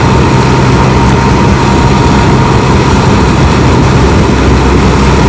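Can-Am Spyder three-wheeler's engine running steadily while riding at an even speed, with a constant rush of road noise and a thin, steady whine.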